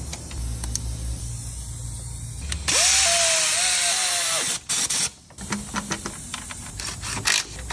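A handheld power tool, a drill or driver, runs for about two seconds with a whine that climbs at the start and then holds in three short pulses. Scattered clicks and knocks of tools on metal follow.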